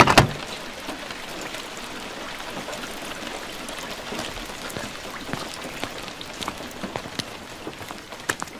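Steady rain falling on hard ground, with scattered louder drips and splats throughout. A single loud knock sounds just at the start.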